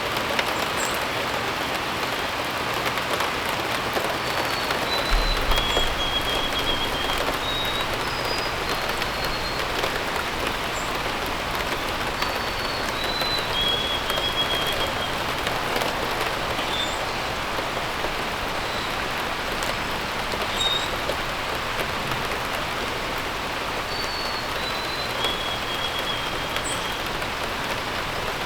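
Steady rain falling, with a songbird singing the same short descending phrase three times, about ten seconds apart, and scattered brief high chirps.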